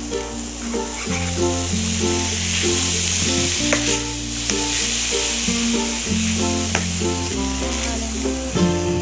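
Ground pork sizzling in a frying pan as it is stirred and turned with a metal spatula, with a few sharp scrapes and clicks of the spatula against the pan. A light tune with a steady bass line plays over it.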